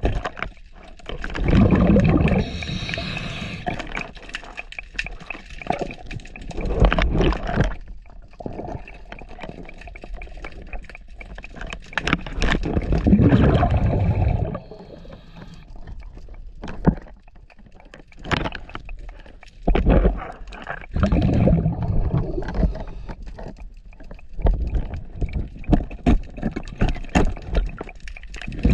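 A scuba diver breathing through a regulator underwater: long rushing, gurgling bursts of exhaled bubbles come every few seconds, with quieter hiss and knocks in between.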